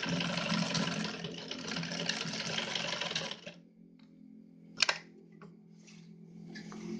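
Yamato 673 zigzag sewing machine stitching at speed with a pattern cam fitted, a fast steady rattle over a motor hum, which stops about three and a half seconds in. A sharp click follows a little over a second later, then a few light clicks and a faint hum coming back near the end.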